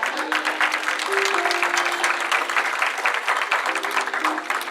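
Congregation applauding, with instrumental music playing held notes underneath.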